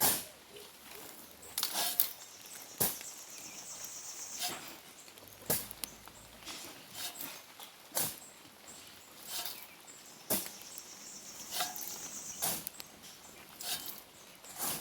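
Rain: scattered drops striking close to the microphone as sharp, irregular taps about a second apart, with a high hiss that swells twice for a couple of seconds.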